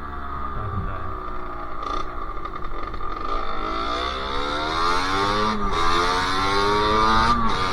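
Sherco SM-R 50's 50 cc two-stroke single-cylinder engine accelerating hard, its pitch climbing and then dropping sharply as it shifts up, once about halfway through and again near the end.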